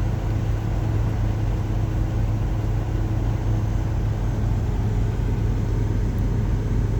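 Rain falling steadily on a semi-truck's cab, over a steady low hum.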